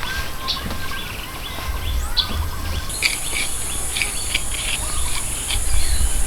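Small birds chirping and calling in short, scattered notes. An insect's steady, high-pitched buzz starts about three seconds in, over a low rumble.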